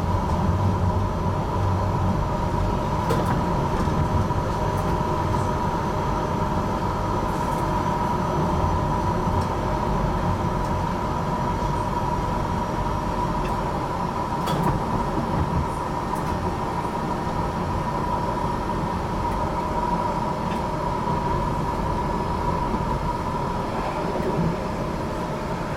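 HTM GTL8 articulated tram running between stops, heard from on board: a steady rumble of wheels on rail with a constant high whine and a few light clicks.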